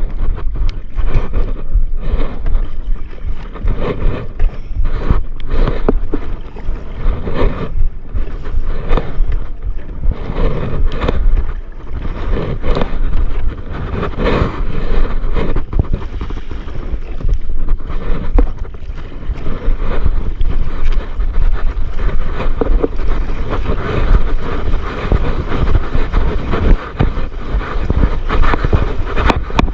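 Wind buffeting a GoPro action camera's microphone in uneven gusts, over the rush and splash of surf and water around a paddleboard.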